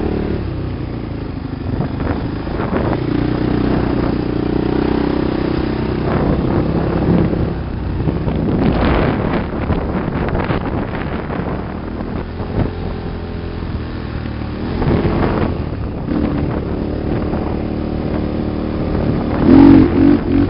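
Engine of an off-road sand vehicle running and changing speed, with wind buffeting the microphone; it revs up loudly near the end.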